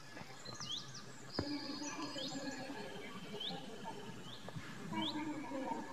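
Small bird chirping repeatedly in short, hooked calls over faint background noise, with one light knock, the spoon against the clay cooking pot, about a second and a half in.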